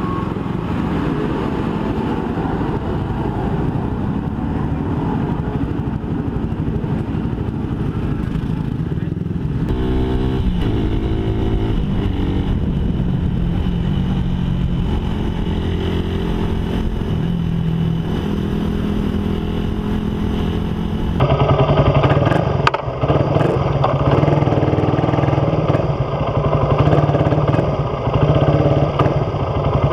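Suzuki Raider 150's single-cylinder four-stroke engine running through an open aftermarket exhaust with no catalytic converter, the motorcycle being ridden. The engine pitch rises and falls with throttle and gear changes, and about two-thirds of the way in the exhaust note becomes suddenly louder.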